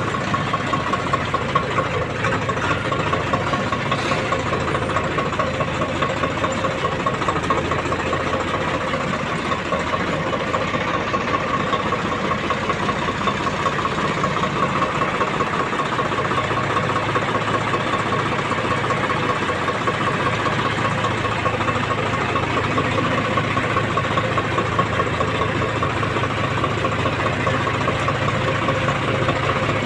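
Tractor's diesel engine running steadily, with an even, rapid pulse of firing strokes throughout.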